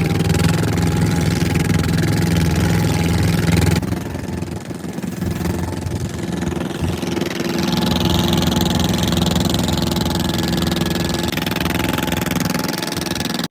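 Fishing boat's engine running steadily. About four seconds in its note changes abruptly and drops, then it picks up again near eight seconds.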